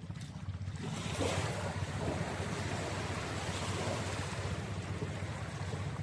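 Motorboat engine running steadily under a rush of water and wind, the rush swelling about a second in.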